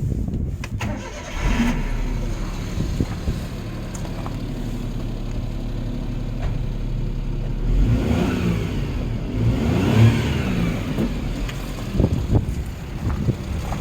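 Suzuki Jimny JA11's small three-cylinder turbo engine firing up, settling into a steady idle, then revved up and back down twice, rising freely and smoothly.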